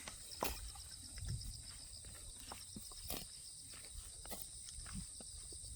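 Horses grazing: irregular crisp rips as they tear off grass, with crunching chews in between.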